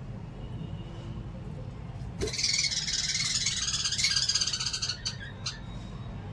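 Small pet parrots chattering in a rapid burst of high chirps. The burst starts about two seconds in and lasts about three seconds, over a steady low hum.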